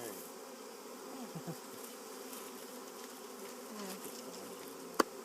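Mass of honeybees buzzing as a steady hum, freshly shaken from a package into a new hive. Near the end, two sharp knocks close together.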